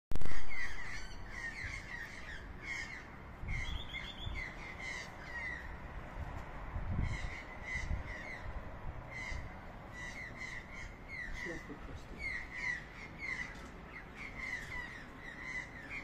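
Several wild birds calling back and forth, short calls repeated in quick runs of a few a second. A brief loud bump at the very start.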